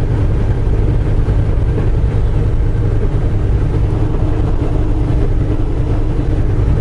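Steady low engine drone and road noise inside a semi truck's cab while driving at a constant pace.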